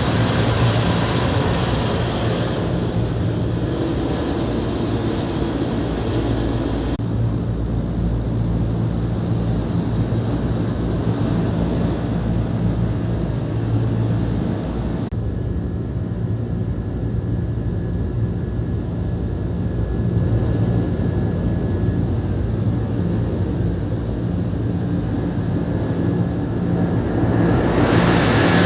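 Daikin air-conditioning unit running: a steady low hum with fan hiss on top. The hiss drops back a few seconds in and again about halfway, then rises again near the end.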